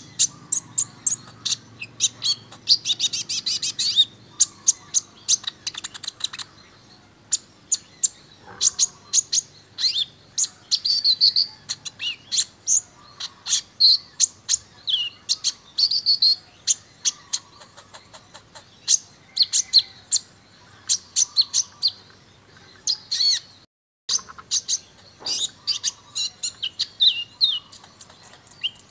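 Kolibri Ninja sunbird singing a rapid, varied song of high chirps and trills, with a full 'isian' of mixed phrases, the kind of tutor recording used to train caged birds. A brief gap cuts the song about 24 seconds in.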